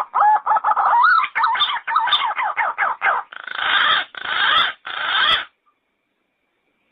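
Yellow-footed green pigeon calling: a quick run of short, warbling whistled notes, then three longer, harsher notes, stopping about five and a half seconds in.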